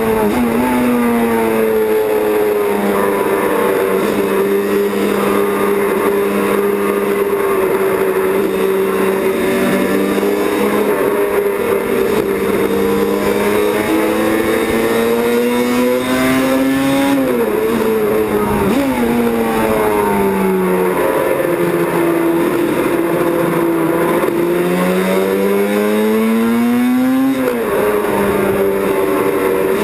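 Racing motorcycle engine running hard at high revs. Its pitch wanders slowly, then twice climbs and drops sharply, near the middle and near the end.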